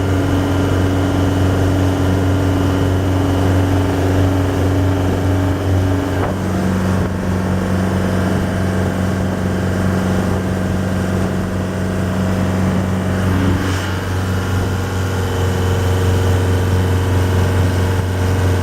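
Yamaha DY29B boat's engine running steadily during a test run. Its pitch drops about six seconds in and shifts again near fourteen seconds, as the throttle changes.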